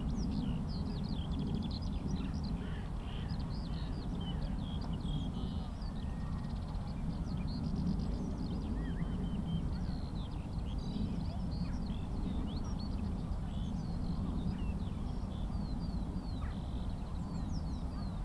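Skylark song: a continuous stream of rapid, high chirps, trills and warbles, over a steady low rumble.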